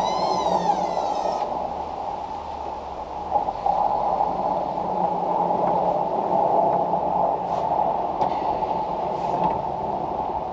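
Engine of snow-clearing equipment running steadily while clearing snow. A wavering whine rises and falls over the first second and a half.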